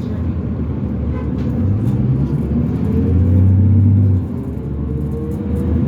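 A 2005 New Flyer D40LF transit bus's Cummins ISL diesel pulling hard under acceleration, heard from inside the bus. The deep rumble swells to its loudest just past three seconds in, then drops suddenly about four seconds in. A rising whine runs under it through the second half, which the uploader calls a weird axle noise.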